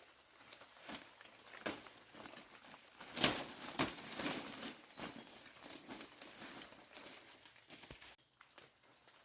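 Irregular rustling and crinkling with scattered light clicks and knocks, loudest about three seconds in and dying down near the end.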